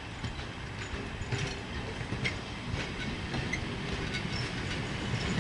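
Heritage passenger train rolling slowly toward the listener: a low rumble that grows gradually louder, with scattered clicks from the wheels over the rail joints.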